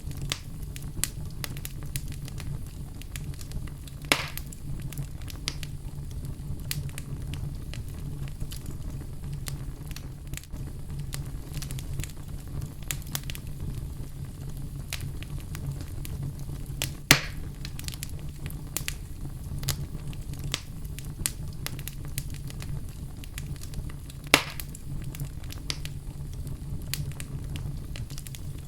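Wood fire burning in a fireplace: a steady low rumble with constant small crackles and three louder pops, about 4, 17 and 24 seconds in.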